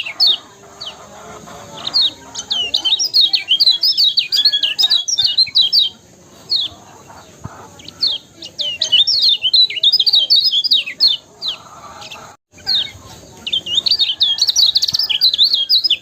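Lemon-bellied white-eye (kecial kuning) singing in bursts of fast, high twittering chirps, with short pauses between bursts.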